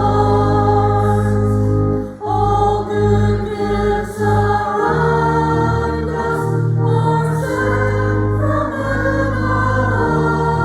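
A group of voices singing a harvest hymn in chorus over an instrumental accompaniment with long held bass notes.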